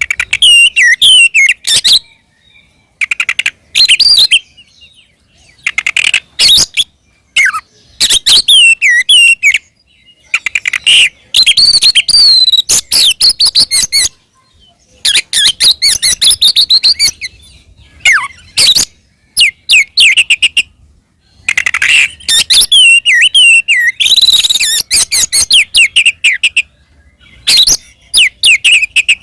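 Oriental magpie-robin (kacer) singing a loud, fast fighting song. Phrases of quick whistled and scratchy notes, many sliding downward, come in bursts of one to three seconds with short pauses between.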